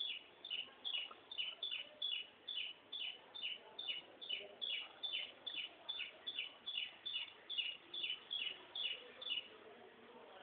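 A bird chirping over and over, a short falling note about two or three times a second in a steady rhythm.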